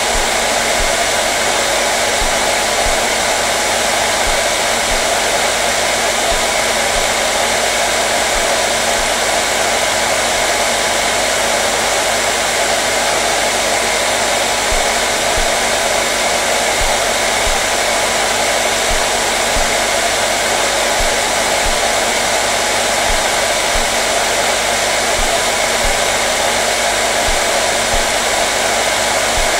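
Hair dryer running steadily: an even, unbroken whooshing rush of air over a faint motor hum.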